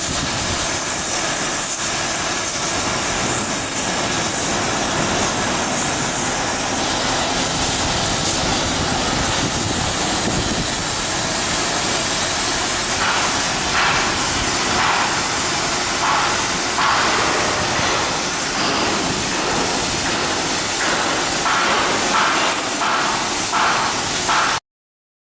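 Steady loud hissing noise of shipyard work, with a run of sharp knocks about one a second through the second half. It cuts off abruptly just before the end.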